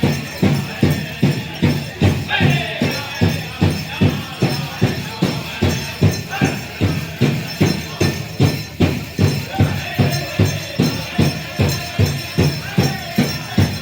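Powwow drum group: a big drum struck in unison at a steady beat, about two and a half beats a second, with voices singing over it from about two seconds in.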